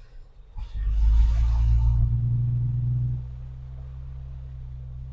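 Four-wheel-drive vehicle's engine pulling hard under throttle on a dirt trail for about two and a half seconds, with a burst of hiss near the start, then easing off to a steady, lower drone.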